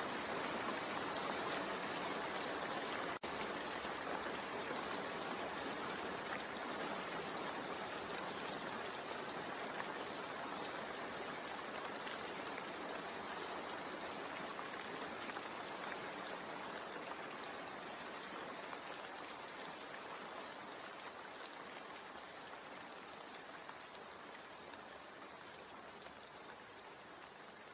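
Steady rain, an even hiss of falling water that slowly fades out, with a momentary break in the sound about three seconds in.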